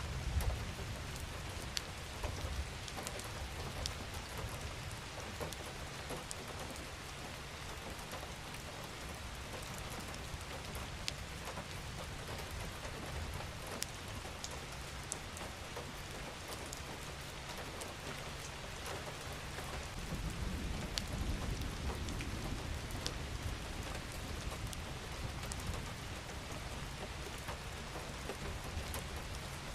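Steady rain falling, with scattered sharp drip and drop ticks over an even hiss. A low rumble swells briefly at the start and again about twenty seconds in.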